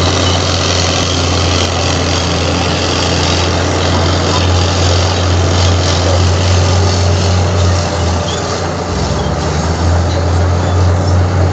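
Heavy diesel engine of earthmoving machinery running steadily with a strong low drone and dense mechanical noise, easing briefly about eight seconds in before coming back up.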